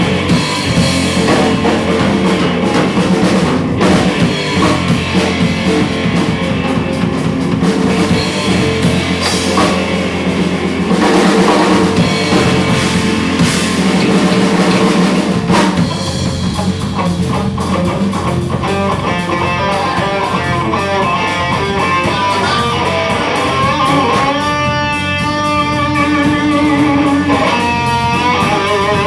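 Live rock band playing: electric guitars and drum kit, with bending, held guitar lead lines in the last few seconds.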